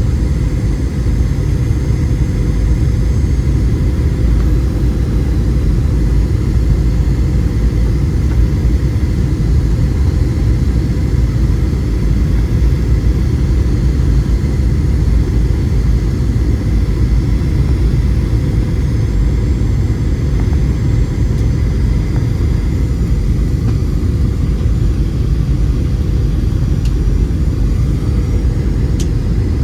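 Steady low rumble of a Boeing 737-700's cabin, the drone of its CFM56 jet engines and airflow heard from inside the cabin.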